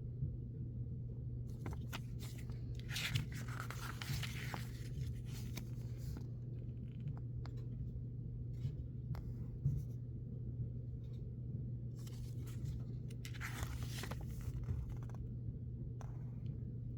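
Thin booklet pages being turned by hand, rustling twice (about three seconds in and again about thirteen seconds in), with a few small paper clicks and handling noises in between, over a steady low hum.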